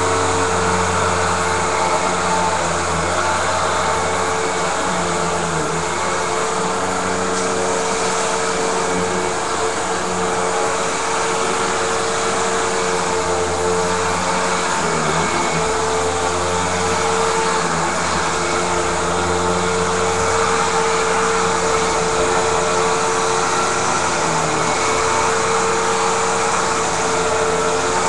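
Vacuum cleaner running steadily: a constant motor hum over a wide hiss, its pitch dipping briefly a couple of times.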